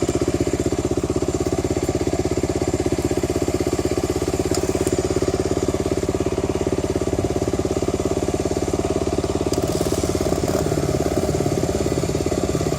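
Dirt bike engine idling steadily with an even, rapid beat.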